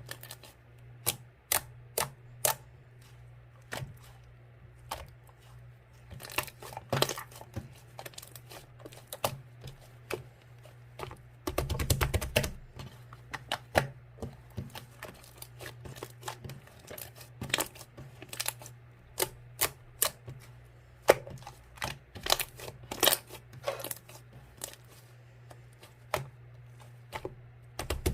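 Slime being squeezed and poked by hand, giving irregular sharp clicks and pops, with a denser squishing burst about twelve seconds in. A faint low hum runs underneath.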